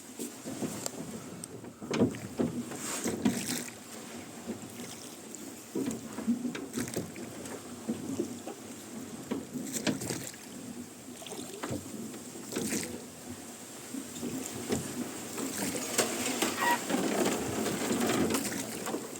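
Wooden rowboat being rowed: oars splashing into the water and oarlocks creaking, stroke after stroke at an uneven pace.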